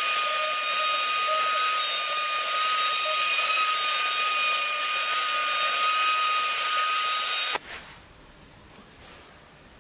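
Small electric power tool running steadily with a high, constant whine over a hiss, then switched off and cut off suddenly about three-quarters of the way through.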